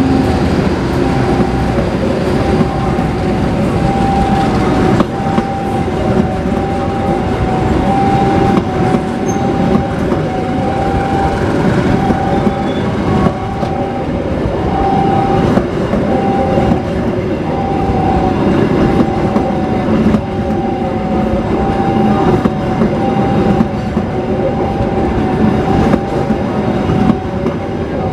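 Train running on the rails: a steady mechanical drone with a constant whining tone, and the wheels clicking over the rail joints.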